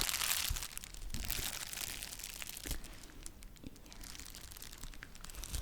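Close-miked crinkling and crumpling of packaging, loudest in the first couple of seconds and then thinning to scattered small crackles.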